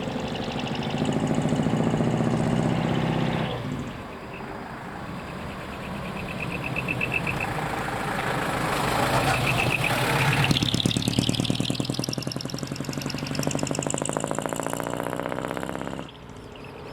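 Heavy diesel trucks driving out, their engines and exhaust throbbing. The sound swells to a loud rev about ten seconds in, then cuts off suddenly near the end.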